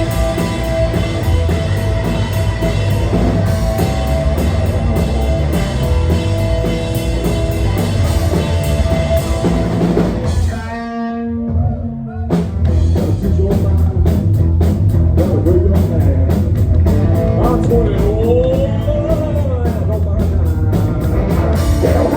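Live rock band playing: drum kit, bass and electric guitars at full volume. About ten seconds in the band briefly drops away to a thin sustained sound, then crashes back in with drums and bass.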